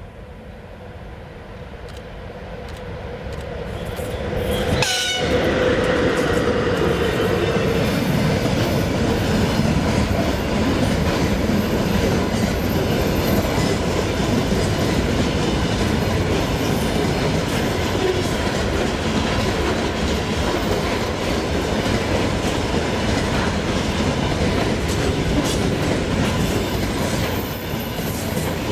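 VL10U electric locomotive drawing closer, then passing about five seconds in with a brief horn-like tone. After it, the train's wagons roll by with a steady rumble and rail clatter.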